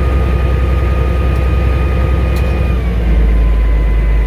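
Caterpillar D6D bulldozer's six-cylinder diesel running steadily under load with a constant whine. About three seconds in, the whine drops slightly in pitch and the low engine rumble grows louder.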